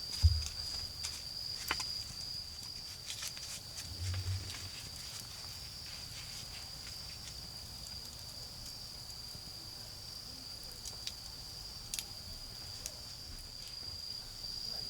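Autumn insects chirring in one steady high-pitched tone, with scattered crackles and pops from a wood fire burning down. A low thump comes just after the start, the loudest sound, and a softer one about four seconds in.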